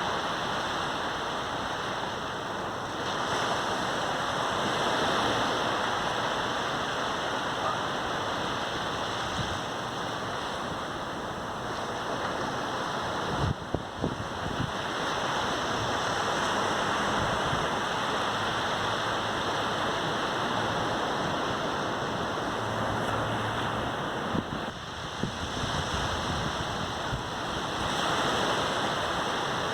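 Ocean surf: waves breaking and washing up the beach in a steady rush that swells and eases every few seconds. Two brief low thumps break in, about halfway through and again near the end.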